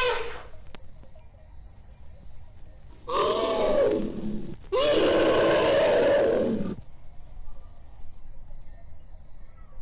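Elephant calling twice in quick succession: a call of about a second and a half, then a longer one of about two seconds, each rising and falling in pitch.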